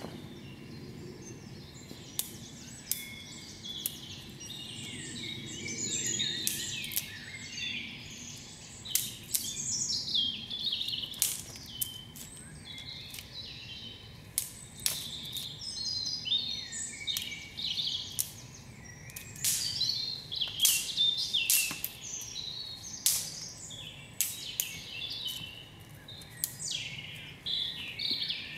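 Woodland birds singing continuously in changing, chirping phrases, with many short sharp clicks scattered throughout.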